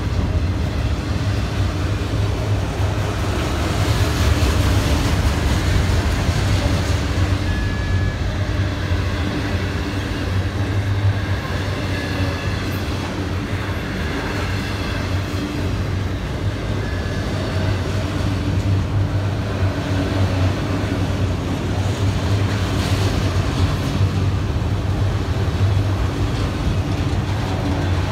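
Freight train of enclosed autorack cars rolling past at steady speed: a constant low rumble of steel wheels on rail, with a few brief, faint wheel squeals on the curve.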